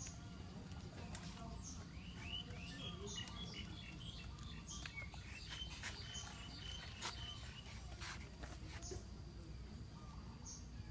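Birds chirping: a short, high chirp repeats about every second and a half, with a run of quicker, lower chirps through the middle, over steady low background noise.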